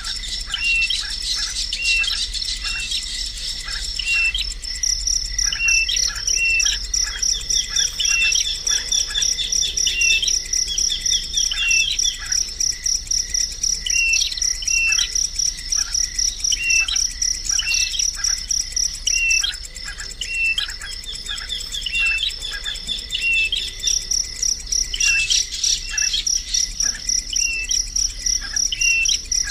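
A bird giving short, repeated chirps, one or two a second, over a continuous high-pitched insect trill such as a cricket's.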